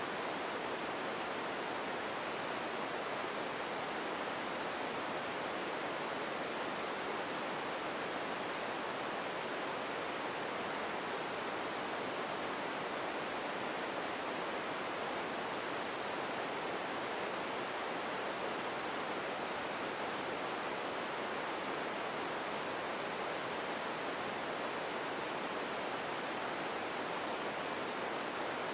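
Empty ambience noise: a steady, even hiss with no distinct events.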